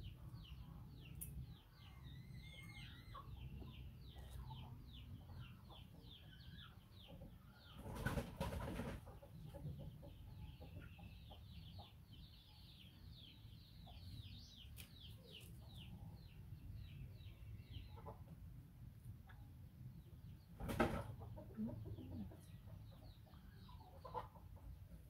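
Small birds chirping in quick twittering runs through most of the first two-thirds, over a steady low hum, with two short noisy bursts, the loudest sounds, about eight seconds in and near twenty-one seconds.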